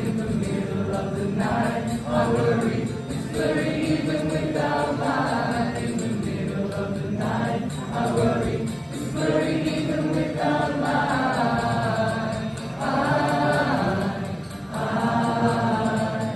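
Live band performance of an indie rock song, with sung vocals holding long notes over the instrumental backing.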